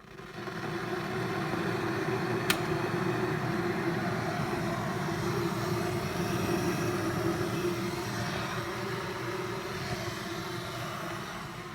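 A kettle making a steady rushing water noise that swells in within the first second, with one sharp click about two and a half seconds in.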